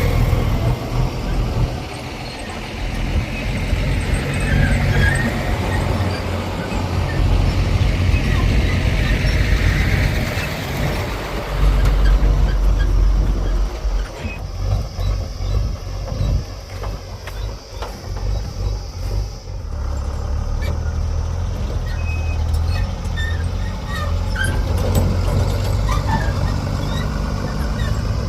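Diesel engine of a JCB 3DX backhoe loader working, its low drone rising and falling with the load, loudest about halfway. A steady high hiss runs for several seconds midway, and scattered knocks and clicks come through in the second half.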